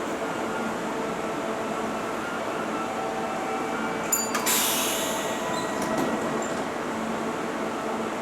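Kintetsu 30000 series Vista Car electric train with a steady hum and whine from its running equipment. About four seconds in comes a sharp click, then a short burst of hissing air that fades within a second.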